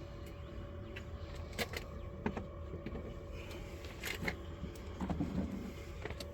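Scattered light clicks and knocks from wooden beehive parts being handled during the inspection of a dead colony, over a steady low hum.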